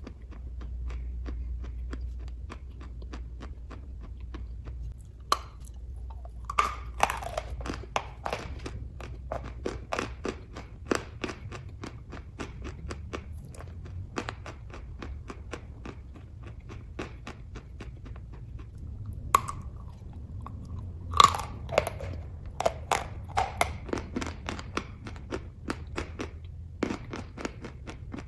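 A person chewing kaju katli (cashew barfi), with many irregular wet mouth clicks and a few clusters of louder bites.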